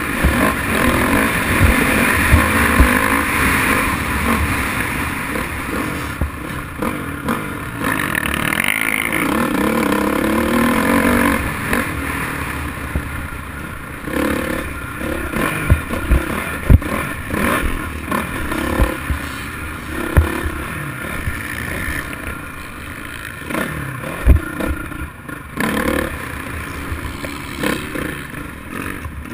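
Dirt bike engine revving up and down through the gears, with scattered sharp knocks and rattles.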